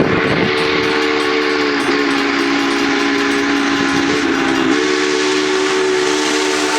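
Union Pacific 844, a 4-8-4 steam locomotive, sounding its chime whistle in one long held chord. The pitch wavers briefly about two seconds in and again about four and a half seconds in, over the noise of the passing train.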